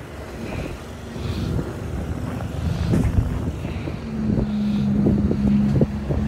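A motor vehicle's engine running with a steady low hum that grows louder toward the end, over wind rumble on the microphone.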